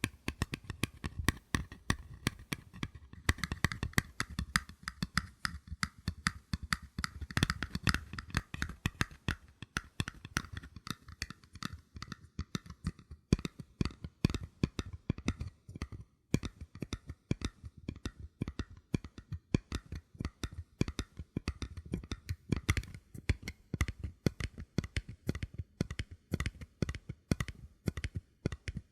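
Paper cups being tapped in quick, soft taps, many a second, with a brief pause about two-thirds of the way through.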